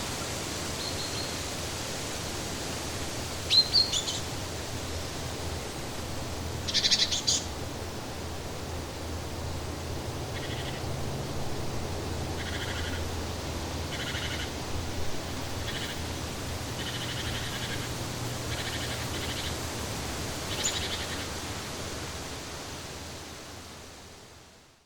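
Outdoor nature ambience: birds chirping and calling in short bursts over a steady rushing hiss, with a run of short repeated calls in the middle. The whole fades out near the end.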